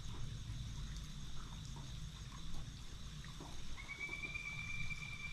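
Faint outdoor creek-side ambience: a steady high-pitched insect-like drone over a low rumble, with scattered small ticks. About two-thirds of the way in, a steady high note starts and holds for a couple of seconds.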